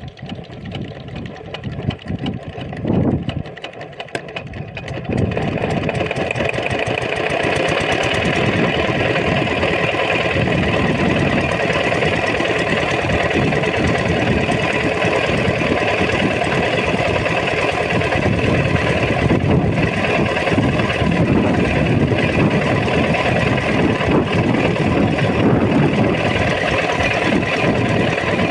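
8 HP diesel water-pump engine being started: irregular, uneven sounds with a loud burst near three seconds, then the engine catches about five seconds in and runs steadily.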